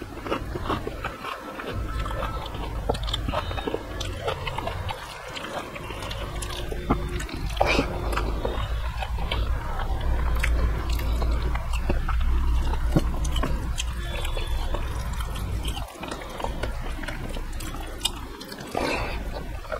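Close-miked chewing and mouth sounds of a person eating rice and dal by hand, with many small wet clicks and smacks and the squish of fingers mixing the rice, over a steady low rumble.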